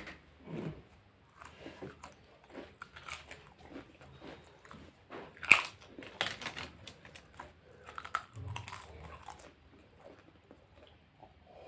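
Close-miked mukbang eating: a person chewing and biting food, with irregular sharp mouth clicks and smacks, the loudest about five and a half seconds in.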